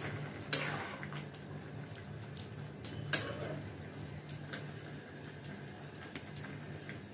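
A metal spatula stirring frying chicken in a pan, with a series of scattered clinks and scrapes against the pan, over a low steady hum.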